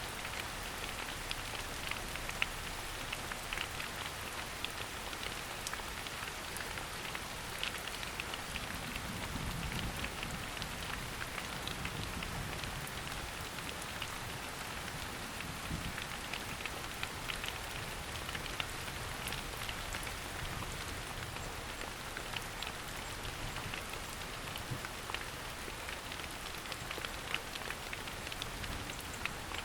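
Steady rain falling in a forest, an even hiss with many separate drops ticking throughout.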